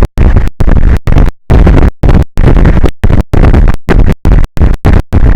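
Loud, distorted rushing noise on the microphone, clipping at full level and cutting out to dead silence in abrupt gaps several times a second.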